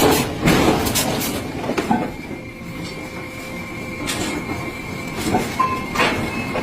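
Heavy steel clanking and rumbling, with sharp metal knocks near the start and again near the end, and a thin steady ringing tone through the middle.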